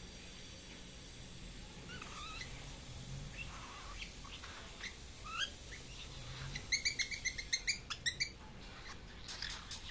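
A young pet bird, about three months old, practising its calls: scattered short chirps and squeaks, then a quick run of about ten sharp chirps near the end.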